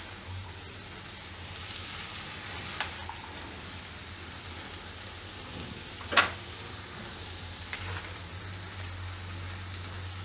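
Shredded cabbage and potatoes frying with a soft, steady sizzle in a non-stick pan while being stirred, with a few light clicks and one sharp knock about six seconds in.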